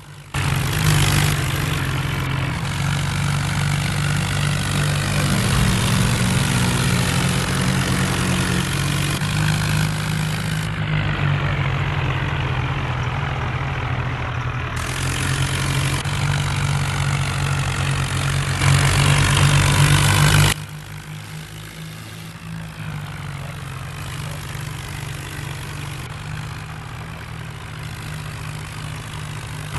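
Heavy diesel engine of a Swaraj tractor running steadily, a deep even throb; it is loud until about twenty seconds in, then drops suddenly to a quieter run.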